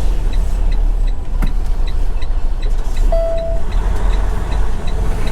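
Semi-truck tractor engine running with a steady low rumble, heard from inside the cab, with a faint steady ticking about two and a half times a second. A short click comes about one and a half seconds in and a brief beep a little after three seconds.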